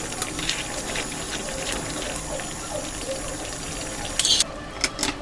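Food cooking in a pan: a steady watery sizzle with small crackles. A short loud clatter comes about four seconds in, then two sharp clicks near the end.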